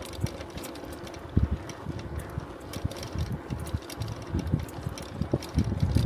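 Bicycle in motion, heard from the bike itself: rapid light clicking and rattling over the steady noise of the tyres on the road, with wind buffeting the microphone in uneven low gusts that get stronger near the end.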